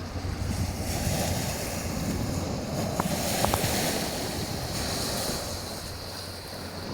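Black Sea surf washing onto the shore, with wind buffeting the microphone; a wave swells up about a second in and eases off over the next few seconds. Two or three short clicks come about halfway through.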